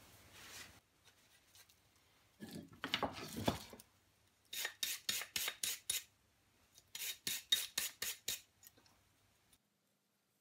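Stiff brush scrubbing metal lathe-chuck parts: a longer scrape, then two runs of about seven quick rasping strokes.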